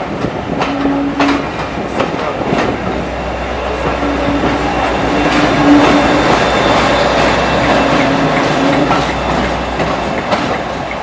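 A train of empty passenger coaches hauled by the steam locomotive 60163 Tornado rolling past, its wheels clicking irregularly over rail joints. The rumble swells to its loudest about halfway through, then eases off.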